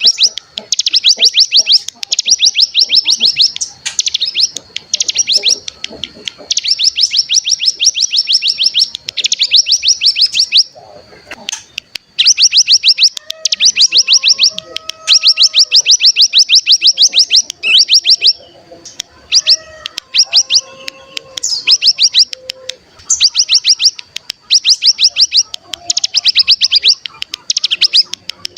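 Ciblek gunung (cigun) singing its fast 'bren' trill: loud runs of sharp, high notes at about a dozen a second, in bursts of one to two seconds with brief pauses, one longer pause about eleven seconds in.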